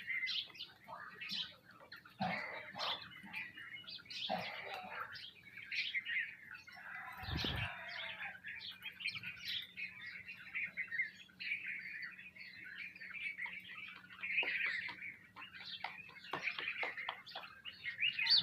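A flock of sparrows chirping continuously in dense, overlapping short calls, with a single low thump about seven and a half seconds in.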